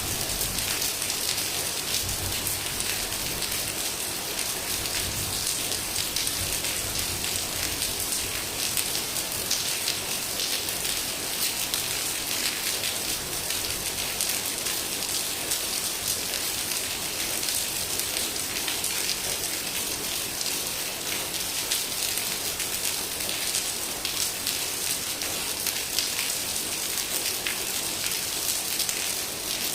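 Heavy rain falling steadily, a dense hiss of drops with fine crackling patter from drops striking surfaces.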